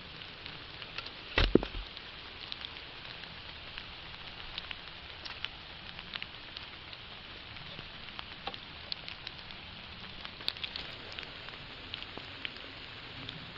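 Outdoor background noise: a steady hiss with many small scattered ticks and crackles, and one dull thump about a second and a half in.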